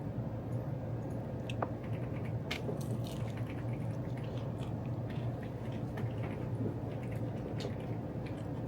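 Steady low hum with scattered small clicks and ticks over it.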